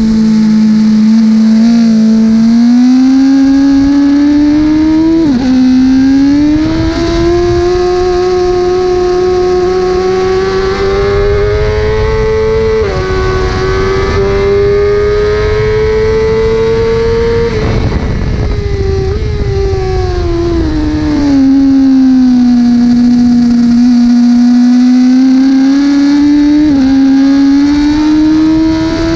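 1000 cc superbike engine at race speed, heard onboard. It revs up through the gears with sharp pitch drops at two upshifts, the revs then fall for several seconds, and it picks up again with another shift near the end, over a steady rush of wind on the microphone.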